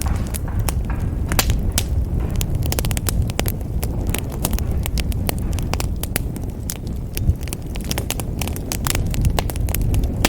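Wood fire in a fireplace crackling, with many irregular sharp snaps and pops over a steady low rumble of the flames.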